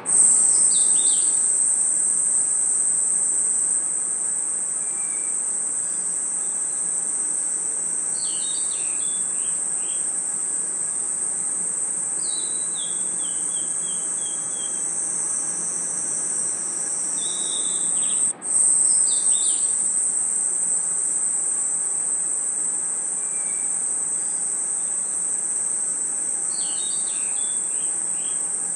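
Dense chorus of crickets trilling steadily and high-pitched, with groups of short lower chirps breaking in every few seconds. The chorus drops out for an instant about 18 seconds in.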